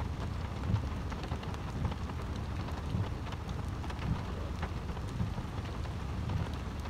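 Steady rain falling on wet pavement and grass, with many single drops ticking close by over a steady low rumble.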